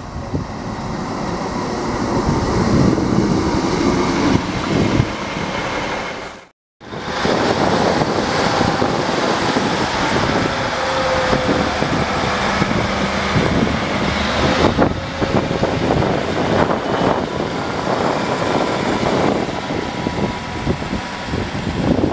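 A train running through a railway station, with a loud rumbling noise and faint steady whining tones in the middle. The sound drops out briefly about six and a half seconds in, where two clips are joined.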